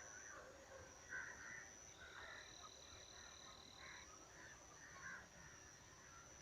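Faint outdoor rural ambience: a steady, high insect drone of two unbroken tones, with scattered faint short chirps.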